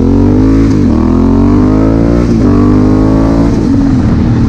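Honda Africa Twin CRF1000L's parallel-twin engine accelerating through the gears: the pitch rises, drops at two upshifts about one and two and a half seconds in, then settles to a steady drone near the end.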